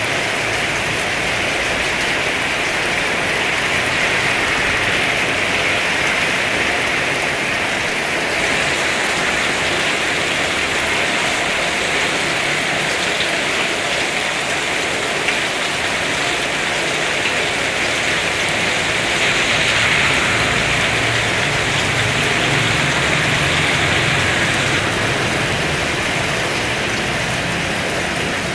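Heavy rain pouring steadily. A low hum comes in during the last third.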